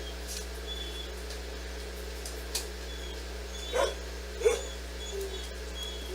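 Two short dog barks, one about four seconds in and another half a second later, over a steady low hum.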